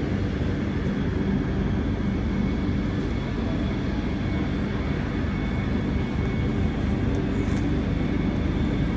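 Aircraft engine running steadily: a continuous drone with a faint steady hum, unchanging throughout.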